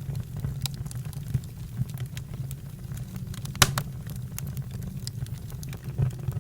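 Campfire burning with a steady low rumble and irregular crackles and pops, one sharp pop standing out about three and a half seconds in.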